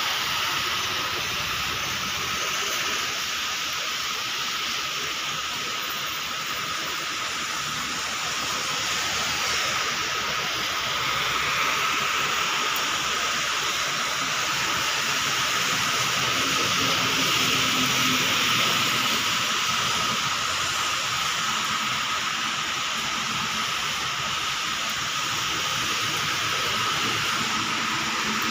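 Steady rain falling, a continuous even hiss, swelling a little louder around the middle. A faint steady high-pitched tone sits over it.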